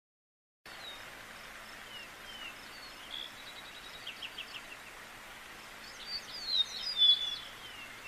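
Several songbirds calling over a steady background hiss: short falling whistles, a quick run of notes about four seconds in, and louder chirps between about six and seven and a half seconds.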